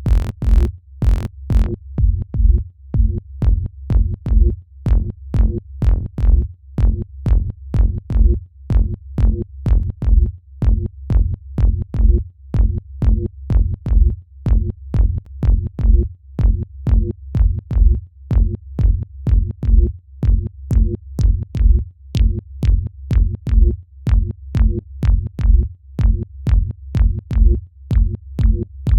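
Electronic dance track in progress playing back: a heavy kick drum and bass pulsing steadily about twice a second, with short crisp hits on top and a brief brighter crash-like hit at the very start.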